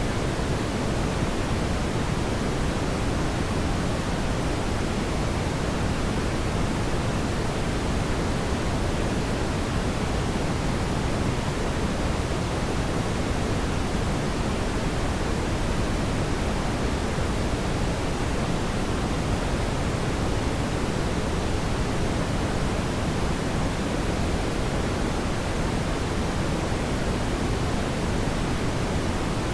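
Fireplace ambience: a steady, even rushing noise, strongest in the low end, with no distinct crackles or pops.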